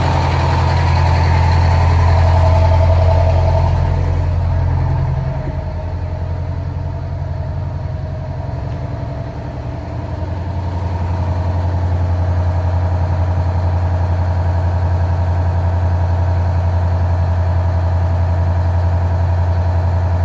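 Fire engine's diesel engine idling with a steady low drone, easing a little quieter for several seconds in the middle before settling back.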